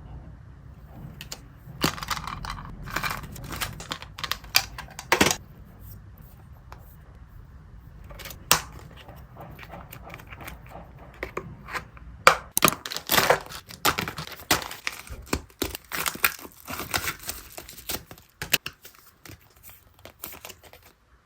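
Packaging being handled, torn open and crinkled by hand, in irregular clusters of rustles and sharp snaps.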